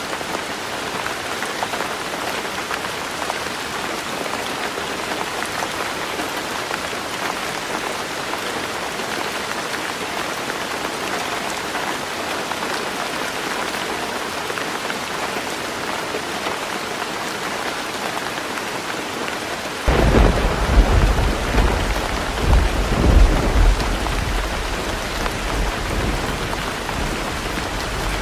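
Heavy rain falling steadily on a roof. About two-thirds of the way through, a sudden low rumble of thunder breaks in, swells twice and slowly dies away.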